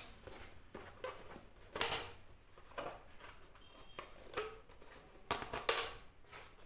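Handling sounds of a folded cover being fastened with a rubber band: a few scattered short clicks and rustles.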